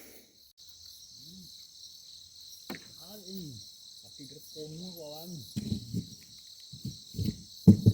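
Steady chorus of night insects, crickets, a high even buzz, with faint voices murmuring now and then.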